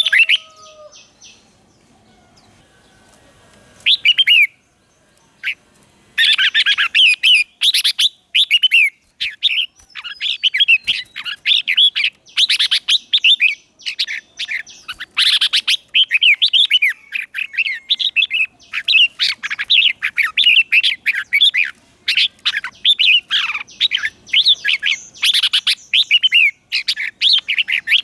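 Red-whiskered bulbul singing: one short call about four seconds in, then from about six seconds a fast, unbroken run of bright chirping phrases. It is a decoy bird's song meant to call in wild bulbuls.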